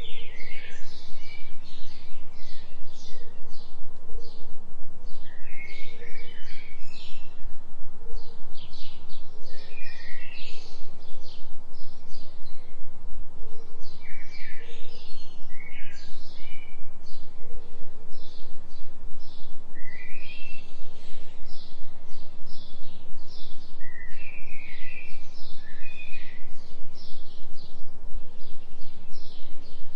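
Recorded forest birdsong, many small birds chirping and twittering throughout, over a steady low binaural drone tuned for a 3 Hz delta beat.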